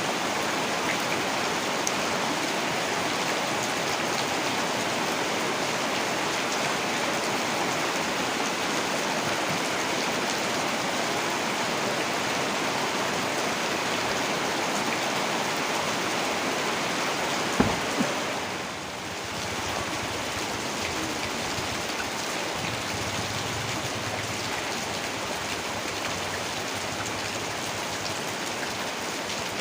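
Heavy rain falling steadily. A little past halfway there are two sharp knocks close together, then the rain briefly dips and carries on slightly quieter.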